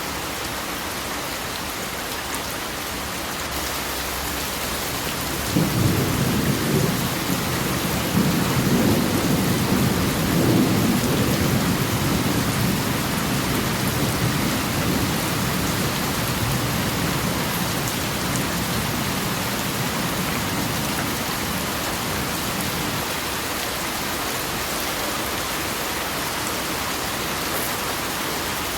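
Steady heavy rain, with a roll of thunder that breaks in suddenly about six seconds in and rumbles low before fading away over the next fifteen seconds.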